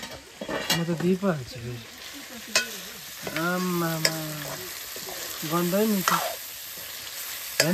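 Food sizzling as it fries in a pan, with a few sharp clicks of a utensil against the pan. A voice sounds briefly a few times in between.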